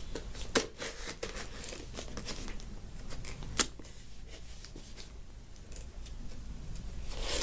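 A delivery package being opened by hand: plastic or paper packaging crinkling and tearing, with scattered sharp clicks and snaps, the loudest about half a second in and again about three and a half seconds in.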